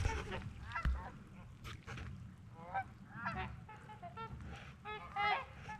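Geese and trumpeter swans honking on the lake: a string of short, overlapping honks, roughly one every half second.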